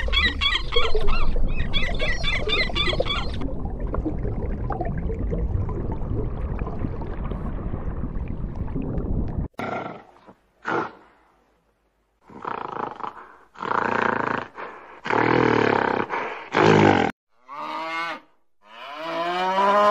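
A run of different animal calls. Geese honk repeatedly for the first three seconds or so, then a long low sound with no clear pitch runs for about six seconds and cuts off abruptly. A string of short separate calls follows, and near the end come two long cow moos.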